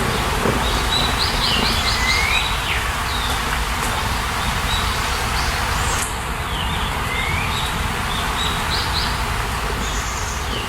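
A songbird singing a short phrase of quick high notes ending in a slurred lower note, twice, over a steady background hiss.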